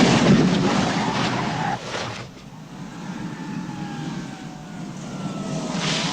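Car-chase soundtrack: engines running hard with tyre noise. About two seconds in it drops away to a quieter stretch with a faint, slowly falling engine whine, then turns loud again near the end.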